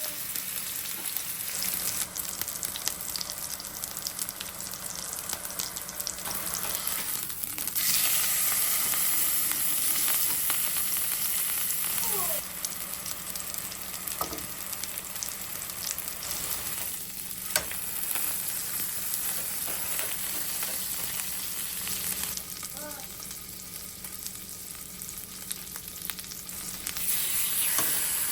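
Food frying in a hot pan: a steady sizzle that grows louder about eight seconds in, eases off, and rises again near the end.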